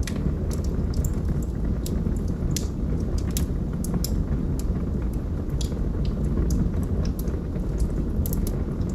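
Wood fire in a fireplace crackling: irregular sharp pops, a couple a second, over a steady low rumble of burning.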